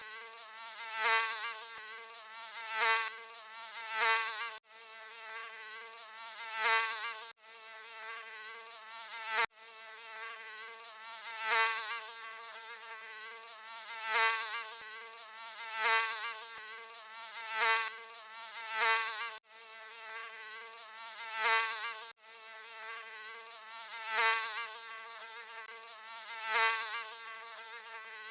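Mosquito buzzing: a continuous high whine with many overtones that swells loud and fades back about every one and a half to two seconds, with a few split-second cut-outs.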